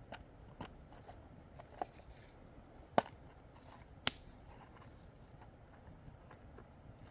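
Scattered sharp snaps and clicks, two much louder ones about three and four seconds in, over a low steady hiss.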